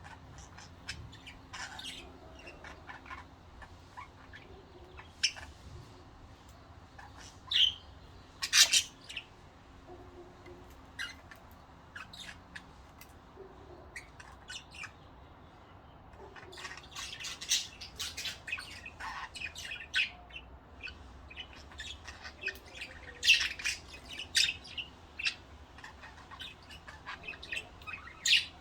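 Pet budgerigars chattering with many short, high chirps and squawks, the calls coming in scattered clusters that grow busier in the second half.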